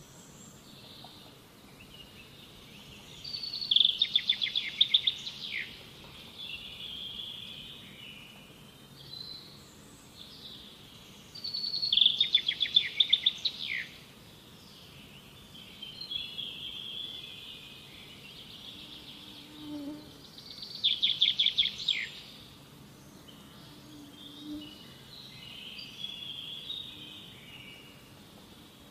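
Bird calling: three loud bursts of rapid, sharp notes, about eight or nine seconds apart, with softer twittering in between.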